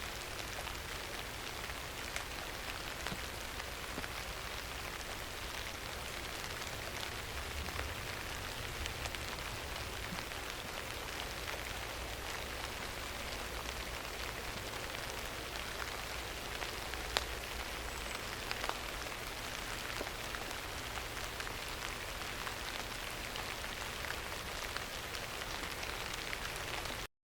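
Steady rain falling, an even hiss with scattered faint ticks of single drops. It cuts off suddenly near the end.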